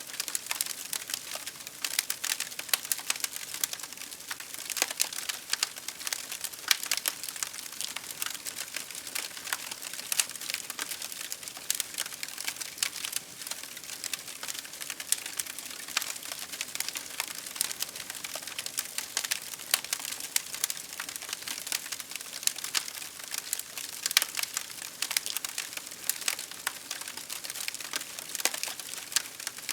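Wood fire crackling: a steady hiss dotted with many sharp, irregular pops and snaps.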